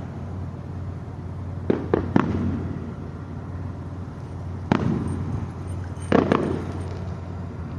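Fireworks exploding: a quick pair or trio of bangs about two seconds in, another bang near five seconds, and two more just after six seconds, each trailing off in a rumbling echo.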